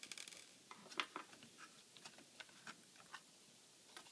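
Faint, scattered light clicks and taps with a short scrape at the start: a laptop motherboard being handled and lifted out of its plastic case after its screws are removed.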